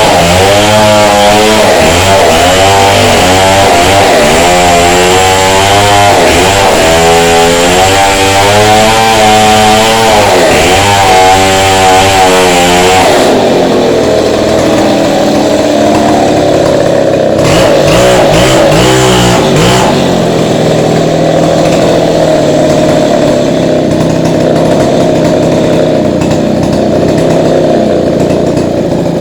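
Petrol chainsaw cutting into a brick wall, its engine pitch rising and falling under load for about thirteen seconds. It then eases off to a steadier, lighter running note, with a couple of brief revs partway through.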